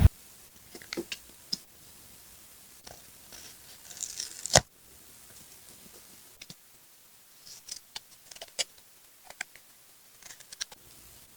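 Paper collage crafting: a few scissor snips and light paper rustling and handling, with one sharp click about four and a half seconds in.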